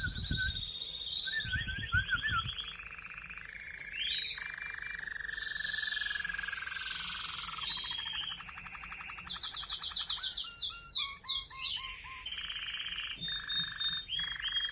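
Domestic canary singing a long, unbroken song of rolling trills and rapid repeated notes, changing from one trill to the next every second or two, with a quick run of sweeping notes a little past the middle.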